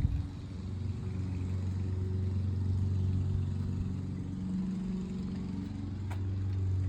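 105cc mini bike engine running steadily at low speed, a small single-cylinder putter holding an even pitch. A single faint click comes about six seconds in.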